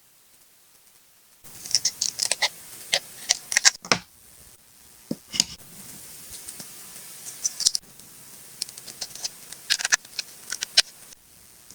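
Close-up paper-crafting sounds of a collage card being made: crisp snips, clicks and rustles of paper and stickers, coming in irregular bursts with a quieter stretch in the middle.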